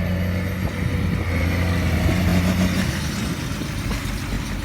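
Tractor engine running close by while pulling a hay baler: a steady low engine drone that weakens about three seconds in.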